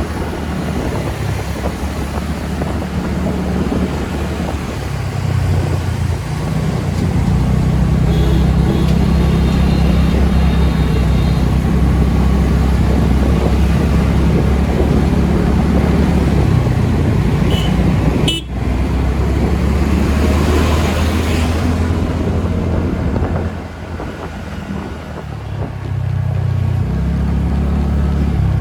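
TVS NTorq 125 scooter's single-cylinder engine running while the scooter climbs a ghat road, with wind rushing on the helmet microphone. A vehicle horn sounds briefly about eight seconds in.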